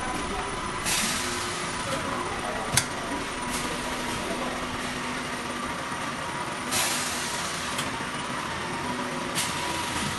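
High-frequency plastic welding and bag-forming machine running with a steady mechanical hum. Two short hisses come about a second in and near seven seconds in, with a sharp click in between.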